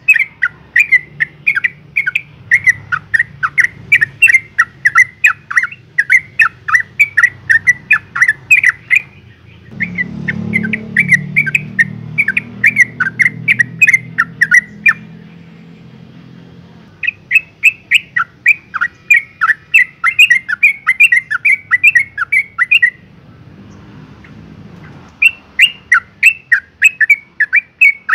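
Yellow-vented bulbul calling in rapid repeated notes, about three or four a second, in long bouts broken by short pauses: a female in breeding condition calling for a male. A low rumble sits under the calls in the middle.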